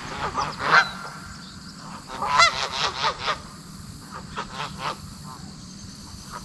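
Geese honking in several groups: a few calls about a second in, the loudest cluster from around two and a half to three and a half seconds, and a few fainter honks near five seconds.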